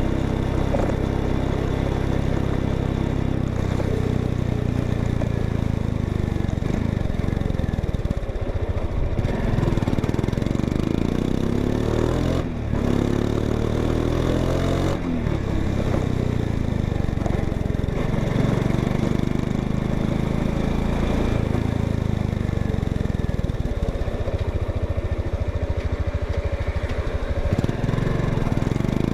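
Honda XRE 190 motorcycle's single-cylinder engine running through its exhaust, the engine note rising and falling several times as it is revved, with a clear sweep up and back down about halfway through.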